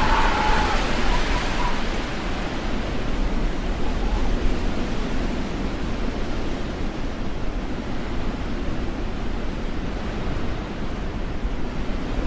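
Strong storm wind: a steady rushing noise with a heavy, fluttering low rumble from gusts buffeting the microphone.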